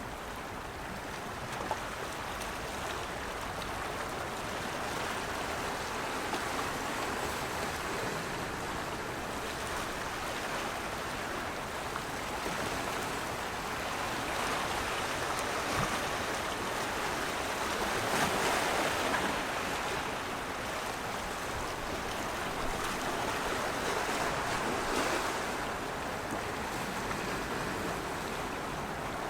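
Steady rush of moving water, swelling louder about two-thirds of the way through and again a little later before easing.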